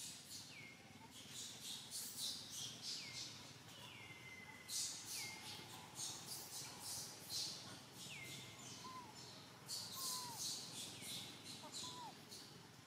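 Birds calling: a short high note that slides down in pitch, repeated about every second, over clusters of high, hissy bursts.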